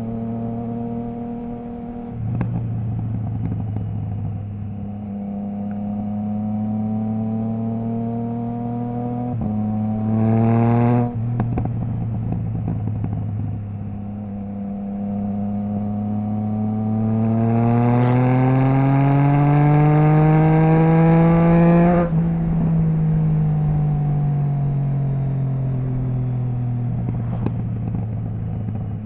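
Triumph Trident 660's three-cylinder engine through a Zard stainless full exhaust with the baffle removed, heard from on the bike while riding. It holds steady, gives a short rise that cuts off sharply, then pulls through a long climb in pitch that gets raspier and cuts off abruptly, and falls slowly in pitch as the bike slows.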